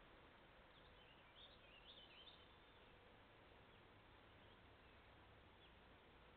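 Near silence: the steady hiss of a trail camera's microphone with a faint steady hum, and a few faint, high bird chirps clustered about one to two and a half seconds in, with single chirps later.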